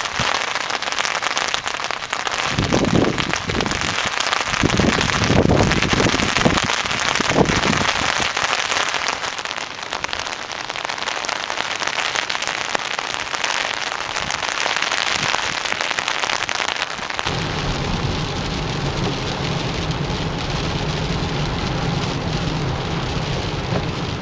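Steady rain falling, a continuous hiss of drops. A few low rumbles swell in the first third, and a steady low hum joins about two-thirds of the way through.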